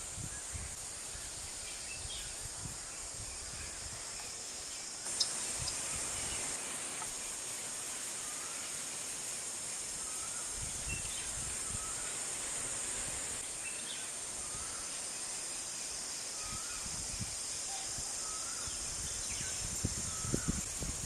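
Wild forest bird repeating a short, slurred whistled note about once a second, over a steady high-pitched hiss of natural ambience that gets louder about five seconds in.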